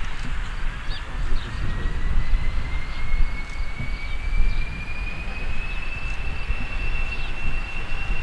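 Jet aircraft engines spooling up: a high whine rising steadily in pitch over about six seconds, then holding, over a low rumble.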